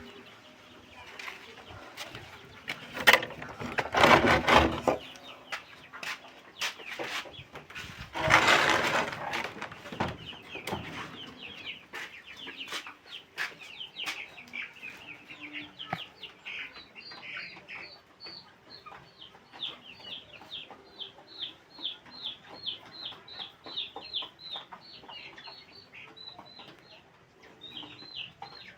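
Kampung chickens clucking, with a run of short, high, falling peeps repeated two or three times a second through the second half, typical of a chick calling. Two loud rustling bursts come early on, a few seconds apart.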